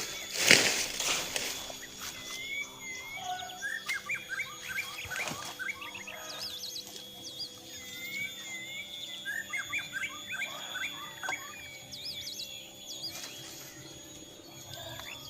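Forest birds singing: bouts of quick, repeated chirps and a few swooping whistled notes, over a steady background. A loud rustling or crackling noise comes in the first second.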